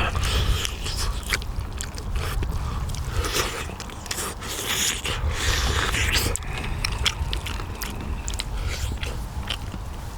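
A person eating pork bone soup, biting and chewing meat off the bones, with many short clicks and scrapes against the bones and dishes. This runs over a steady low rumble.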